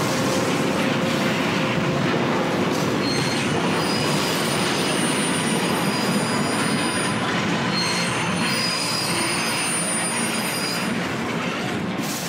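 Train sound effect: a heavy, dense rumble of a train running on rails, with high metal squealing of the wheels against the rails that comes in about three seconds in.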